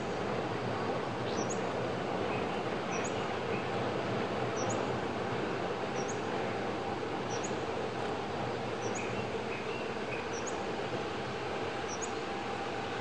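A bird repeating a short, high, rising chirp about every second and a half, over a steady background rush with a faint low hum.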